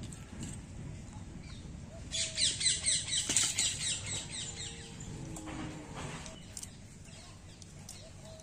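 A bird's rapid run of high, falling chirps, about five or six a second, lasting around two seconds a couple of seconds in. Faint outdoor background surrounds it.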